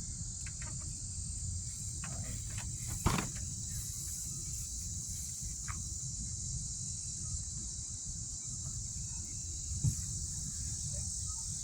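Steady high-pitched insect chorus with a low background rumble, broken by a brief knock about three seconds in and another near the end.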